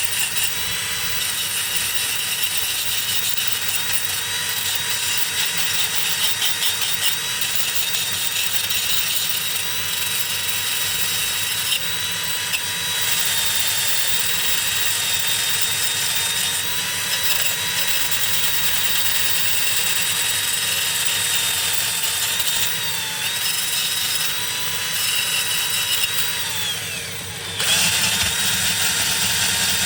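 Small electric power tool motor running steadily with a high whine. Near the end it slows, its pitch falling, then comes back up to speed.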